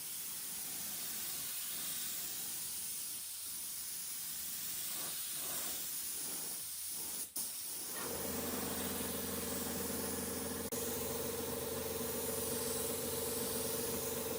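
Steady hiss, like air or spray under pressure. About eight seconds in, a motor starts and runs on with a steady hum beneath the hiss.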